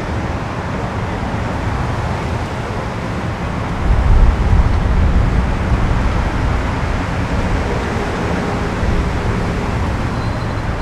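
Steady outdoor rumble and hiss with no speech, with a heavier low rumble coming in about four seconds in.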